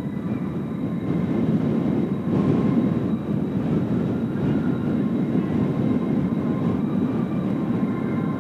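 Kawasaki T-4 jet trainers' turbofan engines: a steady roar with a faint high whine, swelling about a second in and holding.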